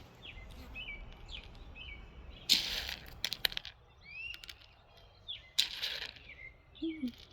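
Small birds chirping: repeated short, curved chirps. Two louder rustling bursts come about two and a half and five and a half seconds in.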